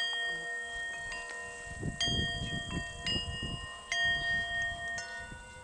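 Several Tibetan singing bowls struck with sticks one after another, about five strikes, each leaving long steady ringing tones at its own pitch that overlap one another.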